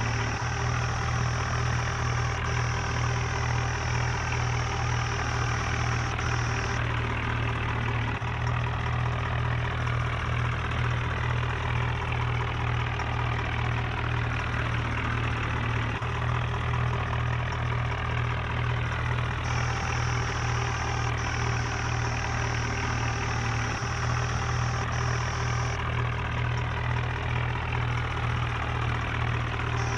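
Steady engine idling drone with a deep low hum, repeating in a pattern that changes about every eight seconds, like a looped engine sound.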